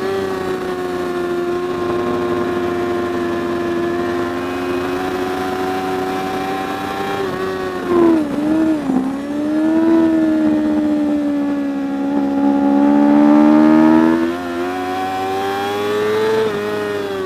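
Racing superbike engine running at high revs, its pitch sagging slowly, dipping and wavering briefly about eight seconds in, then climbing again.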